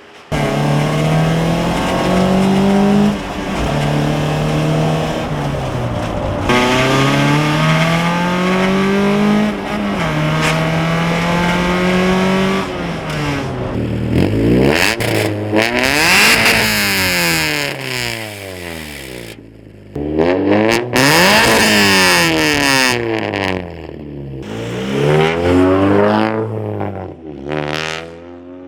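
Honda Civic wagon's engine running loud through a homemade straight-pipe exhaust. It is revved up and down again and again, its pitch rising and falling in repeated sweeps, faster in the second half.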